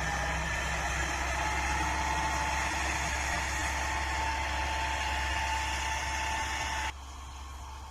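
Bull Power 577 tractor engine running steadily, with a thin steady whine over it. About seven seconds in the sound drops abruptly to a much quieter hiss.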